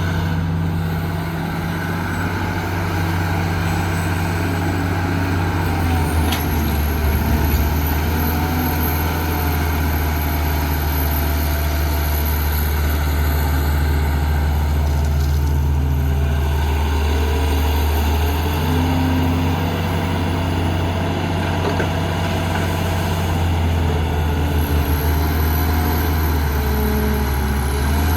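Heavy diesel engine of construction machinery running steadily, its low note stepping up and down a few times as the load changes. A thin high whine runs above it.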